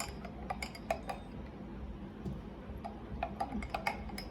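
Light clinks and taps of a utensil against glassware while the watermelon iced tea is being mixed, several irregular strikes a second.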